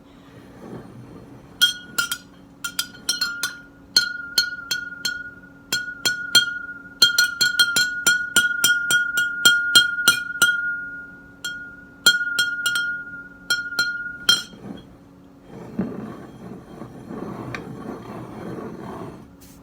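Large serving spoon stirring water in a drinking glass, clinking rapidly and unevenly against the glass's side, the glass ringing with a steady high tone under the strikes. The clinking stops about two-thirds of the way through, leaving a few seconds of softer swishing noise.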